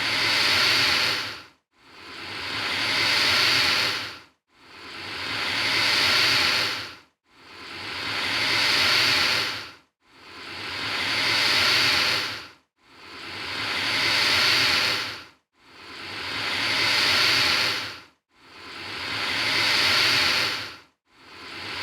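Alligator hissing: a long, breathy hiss about two and a half seconds long, each one swelling and then cutting off abruptly, repeated at even spacing roughly every three seconds, about eight times.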